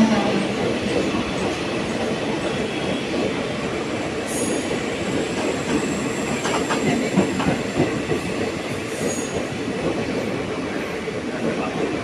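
A train running past at speed: a steady rumble of wheels on rails with clicking over the rail joints. A thin, high wheel squeal is held from about four seconds in to about nine seconds in.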